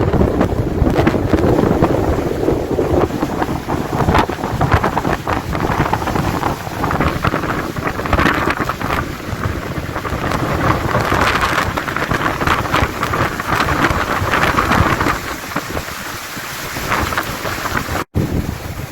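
Loud wind and rain noise on a sailboat at sea in a squall, with wind buffeting the microphone. The sound cuts out for an instant near the end.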